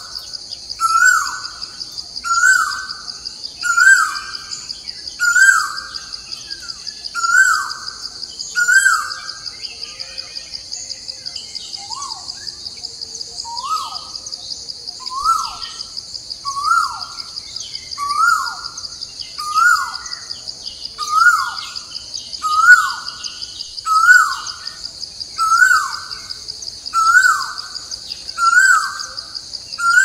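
A bird calling over and over, each call a short falling note, about one every second and a half, with a brief pause about ten seconds in. Under it runs a steady high insect drone.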